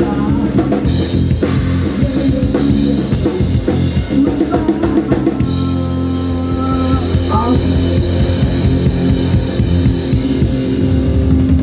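Live rock band playing an instrumental passage on drum kit, guitar and bass, without singing; from about halfway the band holds sustained chords.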